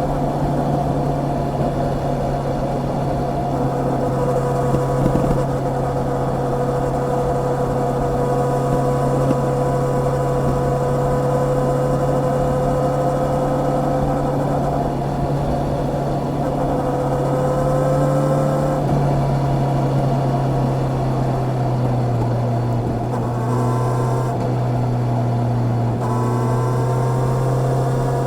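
Honda CB650R's inline-four engine running under way at a fairly steady pitch. The note steps down about two-thirds of the way in, and near the end it rises briefly twice as the revs climb.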